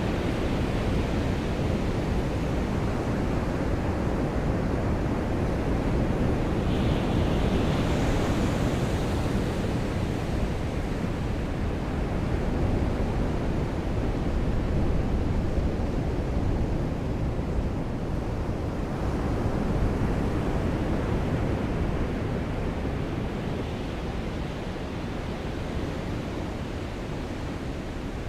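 Ocean surf with rain falling at the seaside: a dense, steady wash of noise, heaviest in the low range, swelling and easing slowly.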